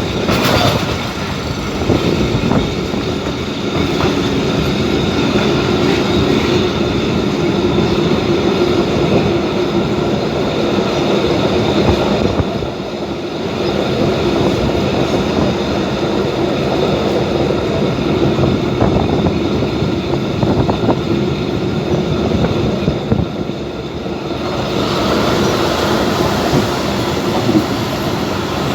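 Abu Qir line commuter train running steadily along the track, with the continuous noise of wheels on rails and a steady tone under it. The noise eases slightly twice.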